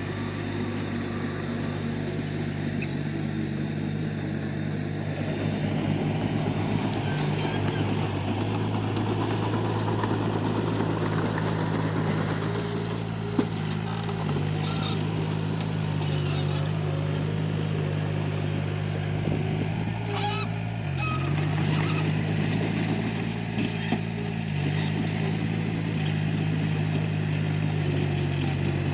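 Komatsu D31P crawler bulldozer's diesel engine running steadily under load, its pitch dipping briefly a few times, with a few sharp knocks along the way.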